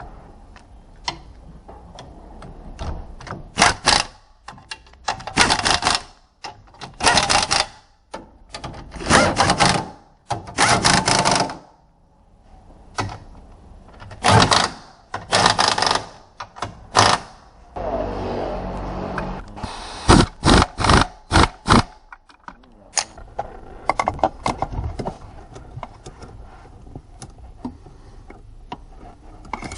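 Repeated bursts of rapid mechanical clicking from tool work, about a dozen bursts each lasting up to about a second, thinning to scattered lighter clicks in the last third.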